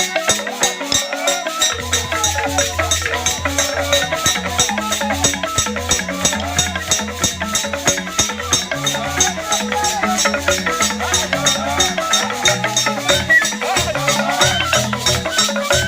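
Traditional Basoga instrumental music: fast, steady rattle strokes over pitched percussion, with low notes joining about two seconds in.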